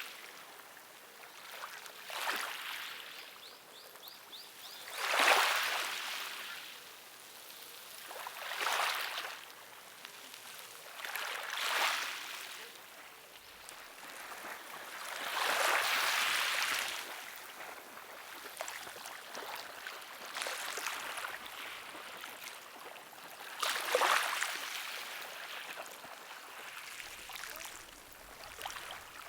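Water washing in a series of swells, a rush of splashing every few seconds that fades between them, like small waves lapping on a shore.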